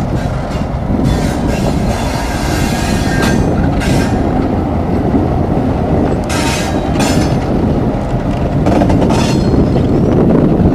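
A train passing close by with a loud, steady rumble of cars on the rails, and high-pitched wheel squeal coming and going several times.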